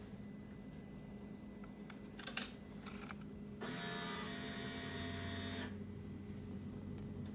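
A 2021 Indian Challenger motorcycle that won't crank: a single sharp click, then a steady electrical buzz lasting about two seconds, over a low steady hum.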